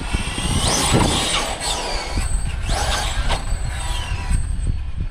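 Losi 5ive TE 3.0 electric RC truck driving under throttle, its motor and drivetrain whine rising and falling twice as it speeds up and backs off, over a low rumble.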